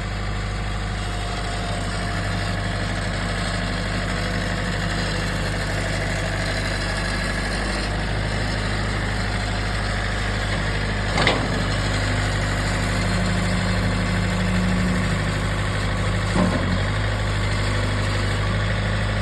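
John Deere tractor engine idling steadily just after starting, with two short knocks partway through.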